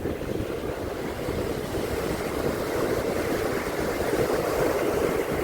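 Ocean surf washing onto a beach, a steady rushing noise that swells gradually, with wind buffeting the microphone.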